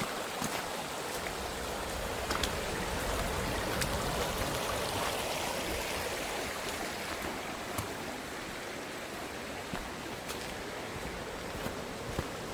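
Steady rush of running water, as of a creek, with a few short sharp clicks scattered through it.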